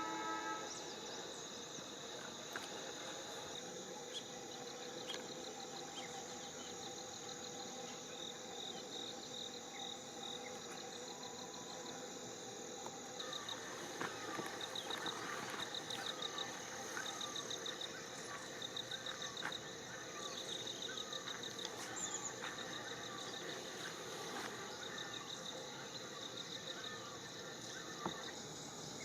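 Outdoor insect chorus: steady high-pitched shrilling with pulsed cricket-like trills. From about halfway in, a string of short repeated chirps sounds over it.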